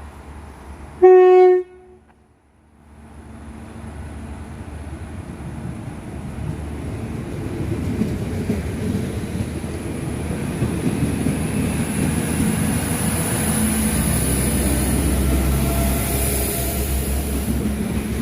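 A Class 4000 diesel multiple unit sounds one short blast on its horn, then pulls away, its engine and wheel rumble building steadily with a high whine above. Its front engine is dead, so it is moving off on its other engine.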